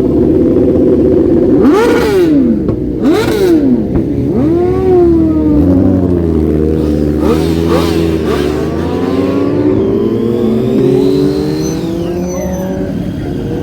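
Motorcycle engines revving: three quick blips sharply up and back down in the first five seconds, then engines running on with a slower rise and fall in pitch.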